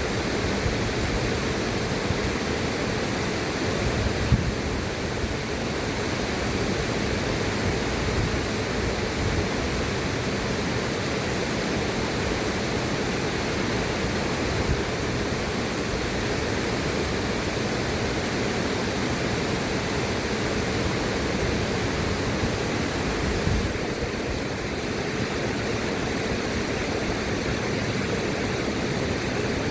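River water rushing steadily, a dense, even hiss of flowing water with small irregular splashes.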